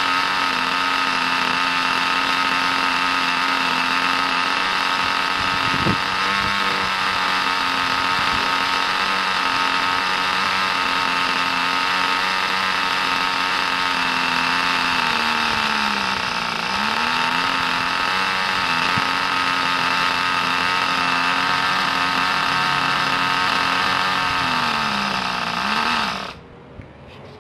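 Kyosho GS11X model engine in a Pure Ten Calsonic Skyline RC car running steadily on its first run. Its pitch sags and recovers a couple of times, then it cuts out suddenly near the end.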